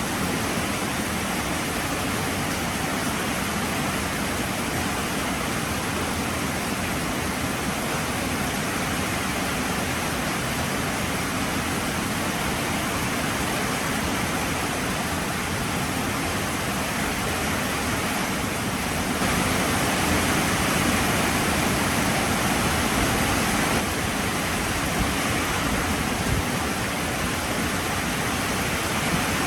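Heavy rain falling steadily, a dense even hiss that grows a little louder for a few seconds about two-thirds of the way through.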